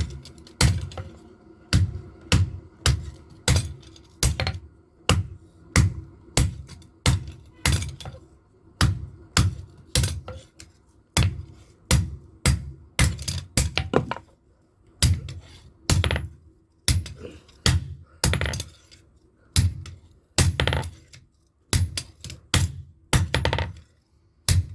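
Hand hammer blows on metal at the anvil during blacksmith forging of a knife, struck in a steady rhythm of about two or three blows a second, with a few short pauses.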